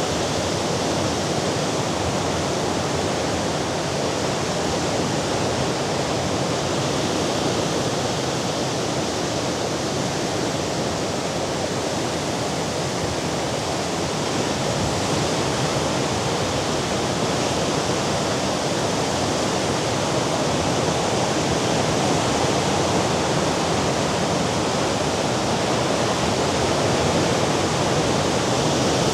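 Steady roar of Mediterranean sea surf, a continuous rush with no separate wave crashes, growing slightly louder over the last third.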